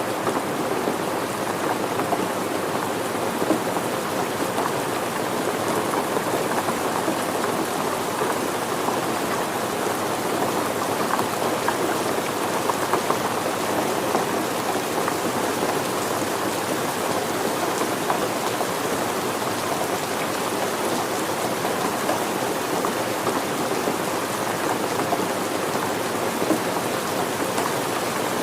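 Steady rain falling, an even patter of drops on surfaces with no change in intensity.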